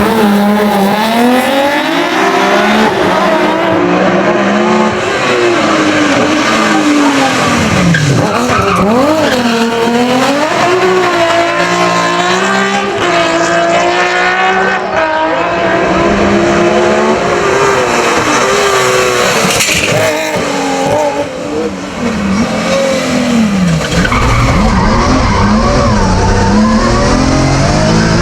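BMW 135 hill climb race car driven hard, its engine revs repeatedly climbing and dropping through gear changes and corners, with tyres squealing at times.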